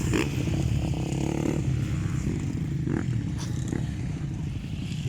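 Motocross bike engines running together, a steady low engine drone with a few brief sharper sounds in it.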